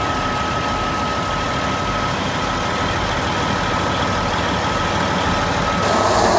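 Heavy machine's engine running steadily, with a faint thin whine over it; about six seconds in the sound changes abruptly and becomes louder and harsher.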